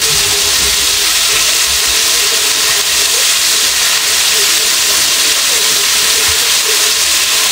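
Chicken pieces frying in a pan of hot oil: a steady, even sizzle.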